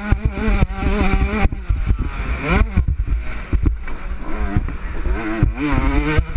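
Motocross bike engine revving hard on a dirt track, its pitch dropping and climbing again and again with throttle and gear changes, steepest about two and a half seconds in. Heard through a helmet-mounted camera, with a heavy low rumble of wind and knocks from the ride.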